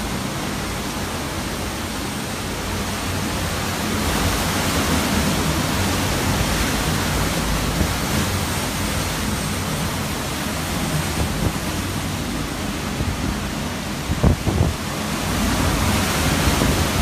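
Hurricane-force wind blowing hard and steadily, a dense rushing noise, with a few short knocks about fourteen seconds in.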